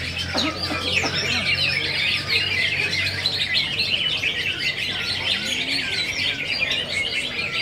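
Several green leafbirds (cucak ijo) singing at once, a dense run of quick overlapping chirps and whistles. A low steady hum sits beneath for the first half.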